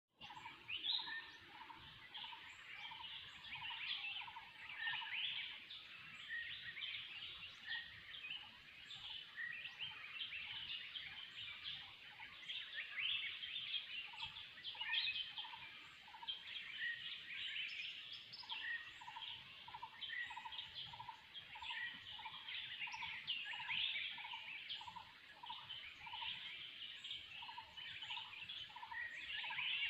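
Dawn-chorus-like mix of many forest birds calling at once, dense overlapping chirps and trills. Underneath, one bird repeats a single lower note at a steady pace, a bit more than once a second.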